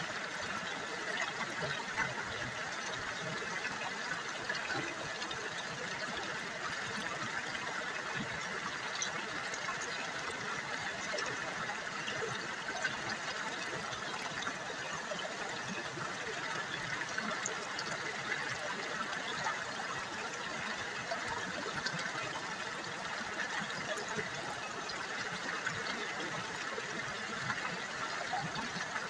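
River water babbling steadily, a dense, even rush dotted with many small splashes.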